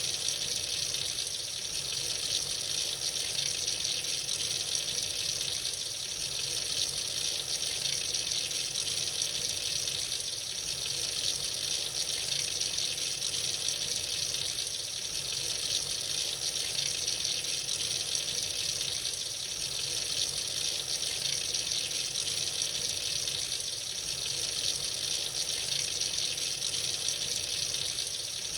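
Tap running freely into a sink, a steady stream of water with gentle swells in loudness.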